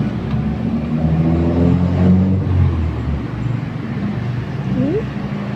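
A motor vehicle's engine running nearby, a steady low hum whose pitch shifts up and down. A brief rising squeak comes near the end.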